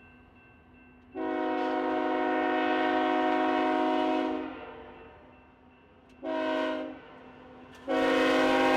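Diesel freight locomotive's multi-chime air horn sounding for a grade crossing: a long blast, a short one, then another long blast starting near the end.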